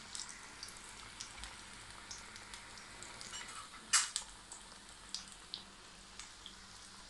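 Boondi-coated paneer pakodas, freshly dropped into hot oil, deep-frying in a pan: a steady sizzle with scattered small pops and crackles, and one sharper pop about four seconds in.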